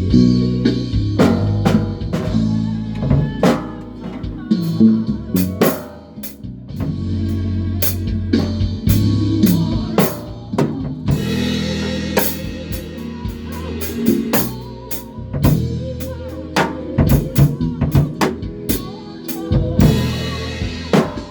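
A band rehearsing: a drum kit with snare and kick drum hits playing over sustained low bass guitar notes.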